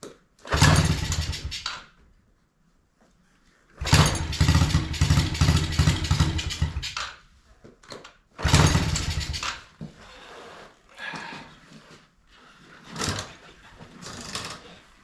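Yamaha TTR90's small single-cylinder four-stroke engine running in short bursts of one to three seconds, going quiet between them, three times. It is a worn used engine that smokes heavily and burns oil, which the owner takes as needing a top end.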